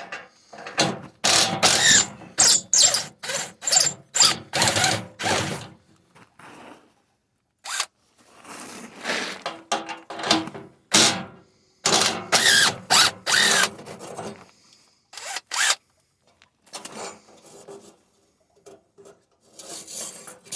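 A tool loosening exhaust bolts under a van, working in repeated short bursts in three main runs, with fainter strokes near the end.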